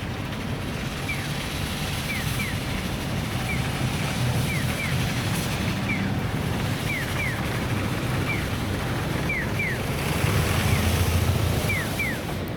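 Sapporo streetcar sasara snow sweeper running, its rotating bamboo brooms sweeping snow off the track in a steady rushing noise over a low rumble that swells about ten seconds in. Short, high, falling chirps repeat through it, often in pairs.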